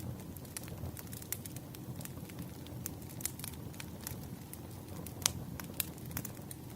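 Wood fire burning, with a steady low rumble under irregular sharp crackles and pops, one louder pop a little after five seconds in.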